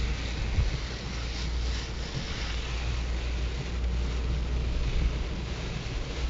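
Strong tropical-storm wind buffeting the microphone in a steady low rumble, over a continuous hiss of wind-driven rain.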